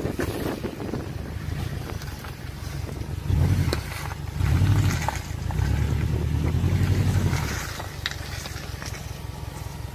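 Off-road vehicle's engine running low and steady, with three swells of revving under load about a third of the way in and through the middle, the longest lasting about two seconds. Scattered knocks and rattles sound over it.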